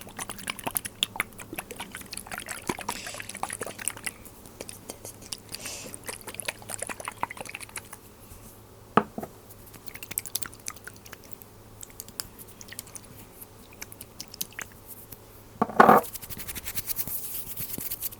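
Close-miked glass dropper bottles being handled: a steady run of small taps and clicks on glass with faint liquid sounds. There is a sharp click about nine seconds in and a louder knock about sixteen seconds in.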